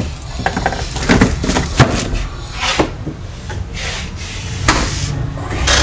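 A refrigerator's doors and fittings being handled: about five separate knocks and clunks, over a steady low rumble of room noise.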